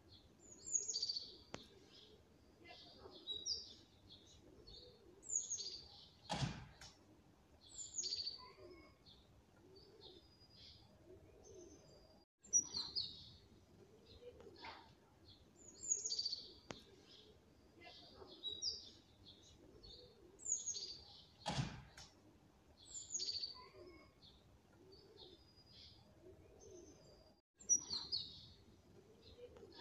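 Small birds chirping: short, high calls every two or three seconds over fainter, lower warbling calls. Two sharp knocks come about fifteen seconds apart.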